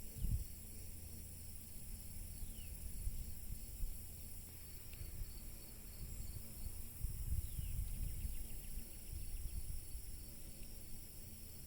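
Outdoor garden ambience: a steady high-pitched insect chorus with an uneven low rumble of wind on the microphone. A couple of short falling chirps come about a third of the way in and again past the middle.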